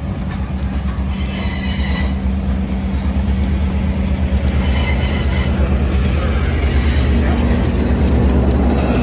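Passenger cars of a train rolling past, their wheels squealing on the rail in three short spells, over the low rumble of an EMD SD-9 diesel locomotive that grows louder as it approaches.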